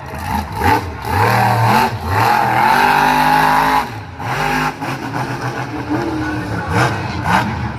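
Monster truck engine revving hard, its pitch rising and falling again and again during a freestyle run.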